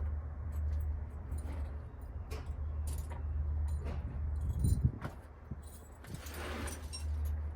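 Small metal objects clinking and rattling as hand tools or keys are handled, with a knock about four and a half seconds in, over a steady low rumble.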